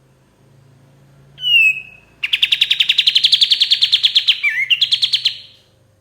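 Kapas tembak, a bulbul, singing: one short falling whistle, then a fast, even chattering trill of about three seconds.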